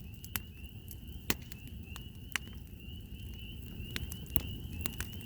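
A chorus of spring peepers calling, a steady high peeping of many short notes, with sharp pops from a crackling campfire every half second to second.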